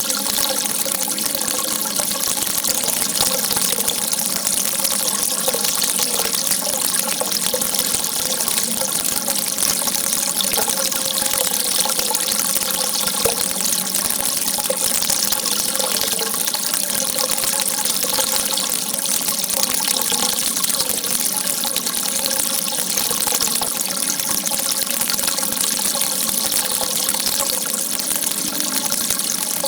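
Water gushing steadily, an unbroken rushing hiss with no pauses.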